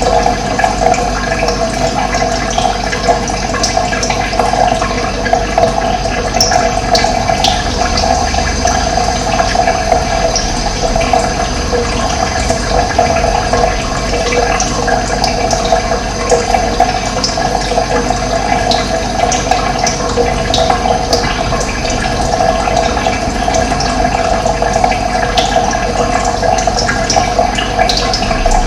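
Running water rushing steadily, like a stream or small cascade, with brief high bird chirps now and then over it.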